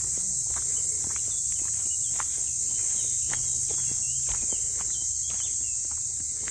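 Steady high-pitched chorus of insects, with footsteps snapping and clicking on the forest floor and a few short chirps, about three to five seconds in.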